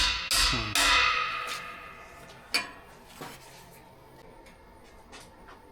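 Metal parts clanking together: three sharp strikes in the first second, the last ringing on and fading over about a second. A further clank comes a little past halfway, then a few lighter clinks.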